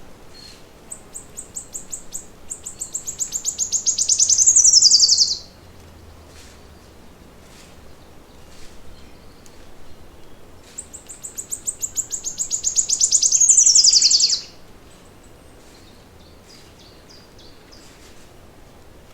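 A small songbird singing two songs about nine seconds apart. Each is a rapid run of high notes that speeds up and grows louder, then ends in a falling trill. Faint chirps come in between.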